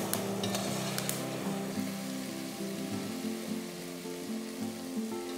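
Okra sizzling and bubbling in pork fat in an aluminium pot, with boiling water just added to draw off its slime, while a metal spoon stirs it; a few light clicks of the spoon in the first second. Soft background music with a slow melody plays along.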